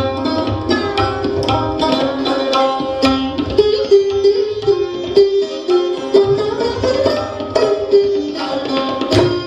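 Hindustani classical jugalbandi: plucked strings (sitar and sarod) playing a quick run of plucked notes over tabla.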